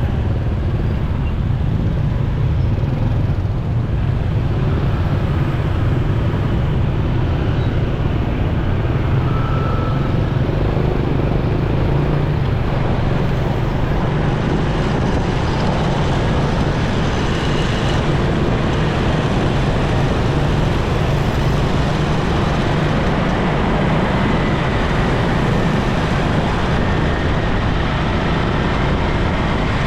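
A motorcycle running at riding speed in traffic, heard from the rider's position: a steady low rumble of engine and wind on the microphone, with road and traffic noise around it.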